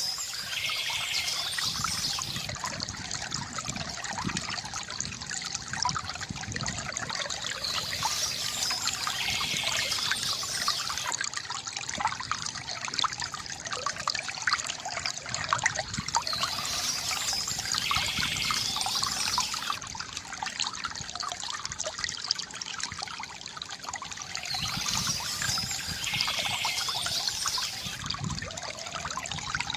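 Water trickling and splashing steadily from a bamboo fountain spout into a basin, with brighter high bird chirping coming back about every eight to nine seconds.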